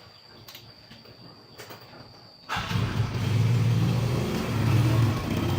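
Faint clicks of handling, then about two and a half seconds in a small engine suddenly starts and runs steadily with a low, rough note.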